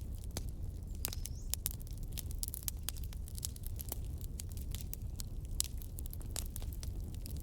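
Wood fire crackling: irregular sharp pops and snaps over a low steady rumble, with one pop trailing a short falling whistle about a second in.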